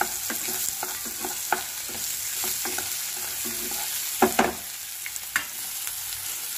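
Sliced onion and green capsicum sizzling in oil and butter in a kadai while a wooden spatula stirs them, with a steady hiss and irregular scrapes and knocks of the spatula against the pan, the loudest a little past four seconds in.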